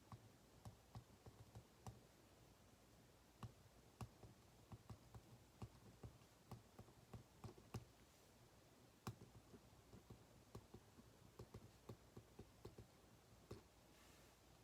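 Faint, irregular light clicks and taps from desk work, a few each second at uneven spacing, over a low steady hum.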